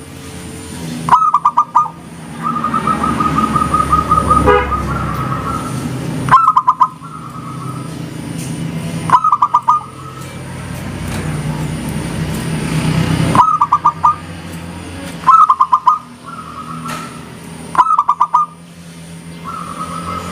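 Zebra doves (perkutut) cooing: a short phrase of quick stuttering notes repeated every few seconds, with one longer even trill a few seconds in. The birds are heard over a steady low rumble.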